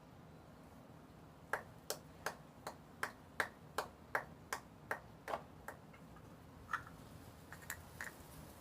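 Drops of fragrance essence falling one after another into a pot of slime mix: about a dozen faint clicks at roughly three a second, then a few scattered drops near the end.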